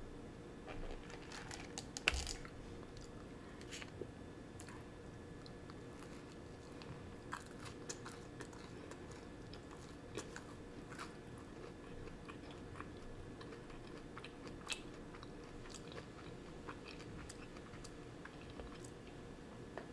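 Close-up mouth sounds of chewing and biting a Panera cinnamon crunch bagel, with small crunchy clicks scattered throughout. A louder knock comes about two seconds in.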